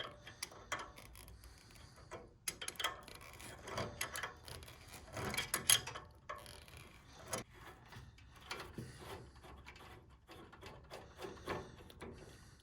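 Metal parts of an espresso machine's group head being handled and taken apart by hand: irregular clicks, clinks and short scraping sounds.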